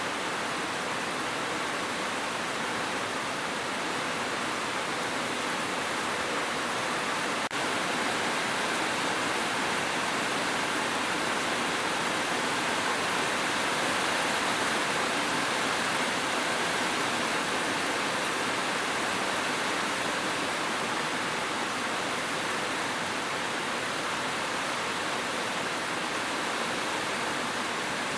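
Steady rain: a continuous, even hiss of falling water with no breaks, and a single faint click about a quarter of the way in.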